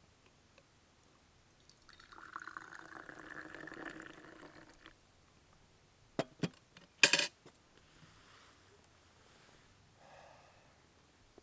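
Liquid poured into a vessel for about three seconds, followed a little later by two light knocks and then a louder, sharper knock or clink of a container being set down.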